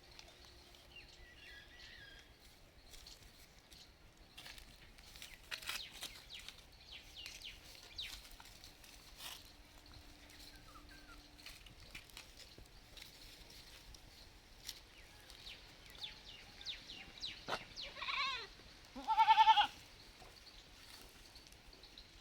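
Baby goat bleating: a short bleat and then a loud, high bleat of about a second near the end, with scattered faint clicks before them.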